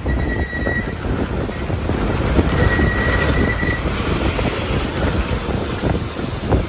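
A vehicle driving along a rough road: a steady low rumble with many small knocks and rattles. A thin, steady high tone comes and goes twice over it.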